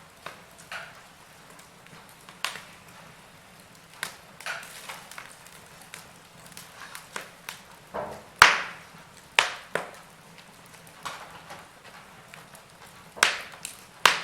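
Wood fire crackling in a fireplace: irregular sharp pops and snaps over a soft steady hiss. The loudest snap comes a little past the middle, and a cluster of snaps comes near the end.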